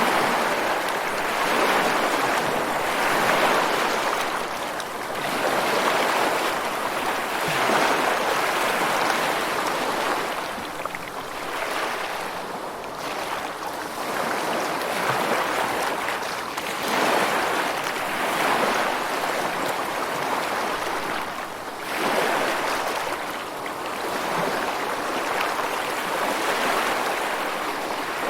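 Ocean surf: waves washing in, the rushing noise swelling and fading every four to five seconds.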